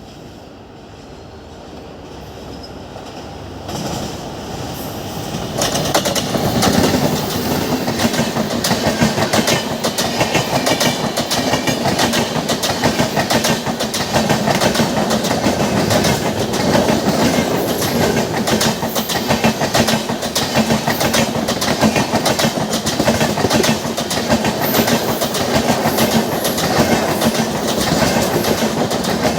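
Train approaching and then passing close by at slow speed, growing louder over the first six seconds. Its wheels click steadily over rail joints and points.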